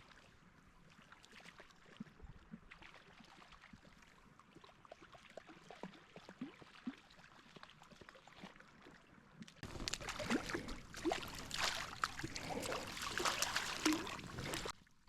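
Faint crackling of river water, then louder splashing and sloshing from about ten seconds in, while a hooked small brown trout is played toward the net.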